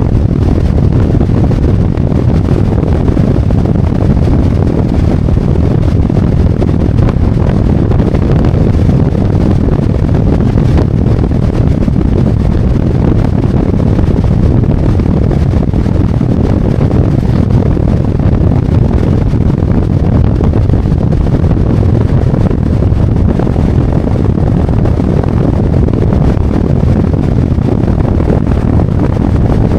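Harley-Davidson Road Glide's V-twin engine running steadily on the move, mixed with a steady rush of wind over the microphone.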